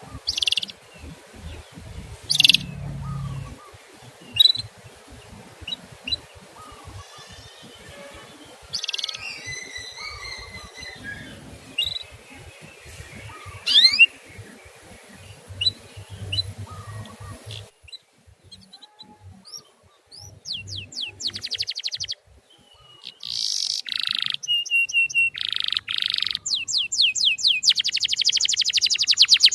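Canary song: short scattered chirps and whistled calls. About two-thirds of the way in the sound switches abruptly to a louder, cleaner recording of fast trills that run together densely near the end.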